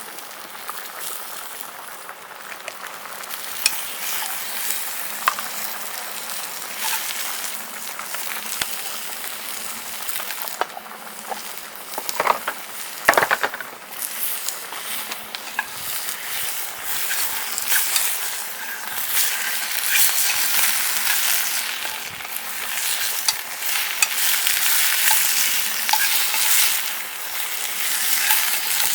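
Food sizzling and frying in a pan, stirred with a utensil, with many small crackles and pops. A louder scrape comes about thirteen seconds in, and the sizzling grows louder in the second half.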